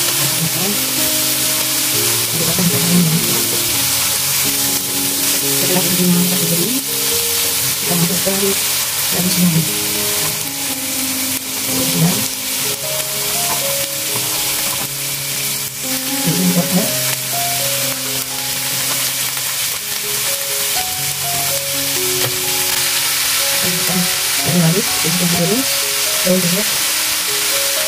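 Spice paste and vegetables sizzling in oil in a wok, stirred and scraped with a wooden spatula. A melody of background music plays throughout.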